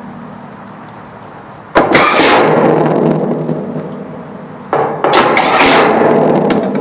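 A cordless power driver running twice, about three seconds apart, plausibly driving the screws of an AC condenser's fan-motor cover back in. Each run starts sharply and trails off over about two seconds.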